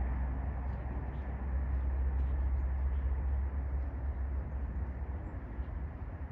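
Outdoor background noise dominated by a steady low rumble that eases off about halfway through; no clear duck calls stand out.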